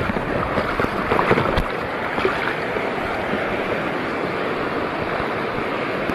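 Sea water washing with small waves, with wind on the microphone. A few sharper sounds come in the first couple of seconds, then it settles to an even wash.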